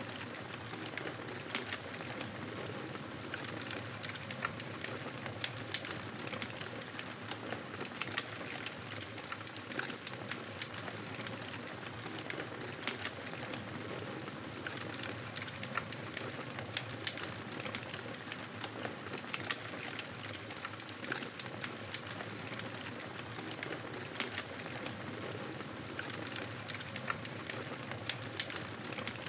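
Fireplace fire crackling: a steady hiss with frequent small pops and snaps scattered throughout.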